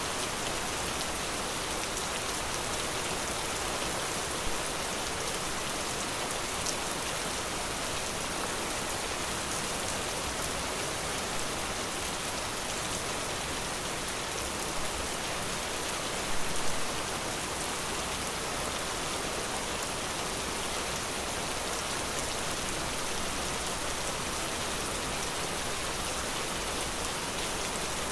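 Steady forest rain falling, an even hiss of drops with a few louder nearby drops standing out, most in a short cluster a little past halfway.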